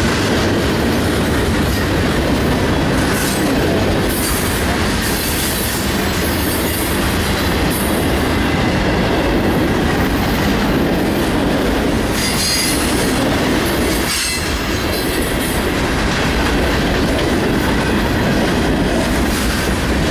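Freight cars of a passing Union Pacific train (boxcars, an autorack and coil cars) rolling by close up: a loud, steady rumble of steel wheels on rail, with brief high-pitched wheel squeal now and then.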